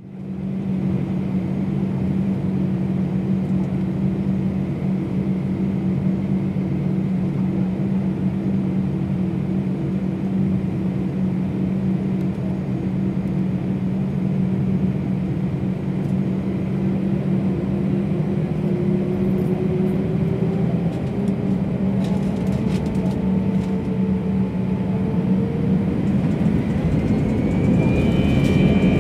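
Airbus A319's CFM56 turbofan engines heard from inside the cabin: a steady low hum at first, then, from about two-thirds of the way through, whines rising in pitch and the sound growing louder as the engines spool up to takeoff thrust.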